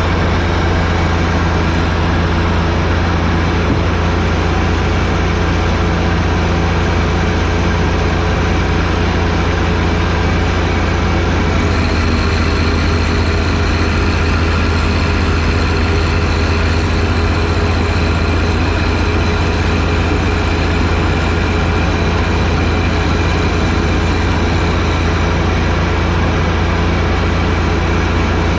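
John Deere 1025R sub-compact tractor's three-cylinder diesel running steadily under a constant throttle. About twelve seconds in, a faint high whine joins the engine note.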